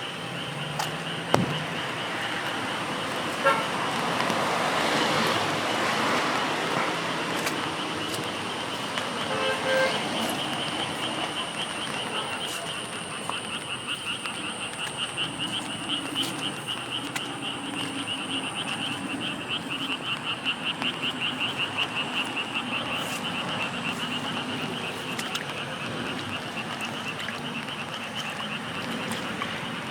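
Rainy city street ambience: a steady wash of rain with scattered drop ticks and a car passing on the wet road. A short horn-like toot sounds about ten seconds in. Over it runs a high, rapidly pulsing trill that grows stronger in the second half.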